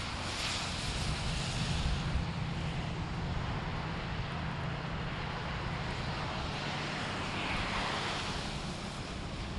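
Road traffic: motor vehicles passing, with a steady low engine hum underneath. The tyre and engine noise swells twice, briefly about half a second in and again around eight seconds in, as vehicles go by.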